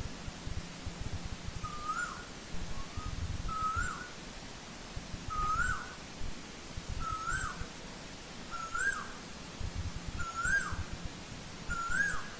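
Asian koel calling: a series of seven short whistled notes, each rising then dropping, about one every second and a half to two seconds, over low rumbling background noise.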